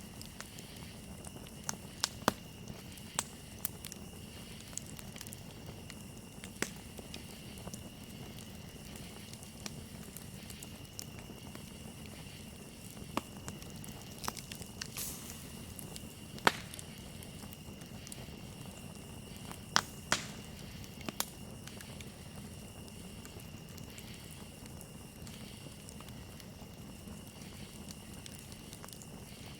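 Campfire crackling, with sharp pops at irregular intervals, the loudest about halfway through and a close pair about two-thirds in, over a low steady rush of burning wood. Crickets chirring steadily at a high pitch throughout.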